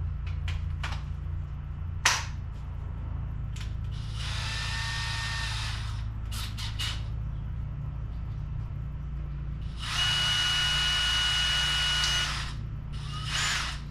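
Cordless electric drill run in short bursts while drilling holes in a plastic bottle lid. There is a whirr of about two seconds around four seconds in, a louder, steady whine of about two seconds near ten seconds, and a brief speed-up near the end. Clicks and handling knocks fall between the runs over a steady low hum.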